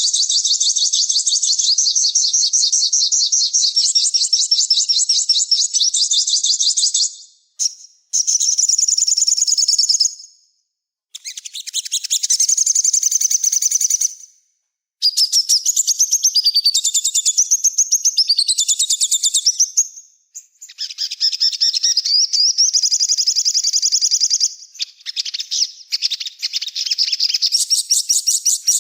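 Small songbird singing in long phrases of rapid, very high-pitched trills and chattering chirps, broken by a few short pauses.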